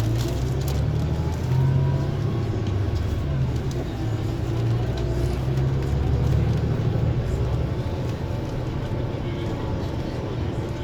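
Scania coach's diesel engine running under way, a low drone whose pitch rises and falls with the revs.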